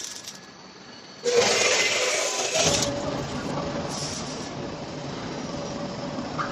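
Tube forming machine line running. About a second in, a sudden loud hiss lasts a second or two, then it settles into a steady mechanical running noise with a held hum.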